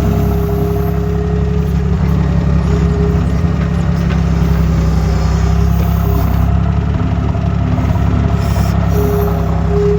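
Skid steer loader's diesel engine running steadily at a constant speed.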